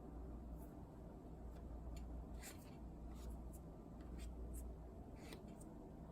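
Faint, irregularly spaced clicks of fingers tapping on a laptop, about a dozen in a few seconds, over a low steady hum.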